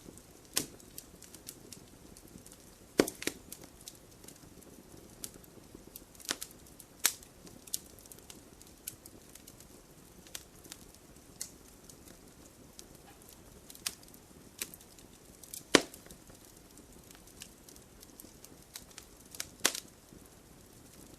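Open wood fire crackling: irregular sharp pops and snaps over a soft low hiss, with a few much louder snaps, the strongest about three seconds in and about three-quarters of the way through.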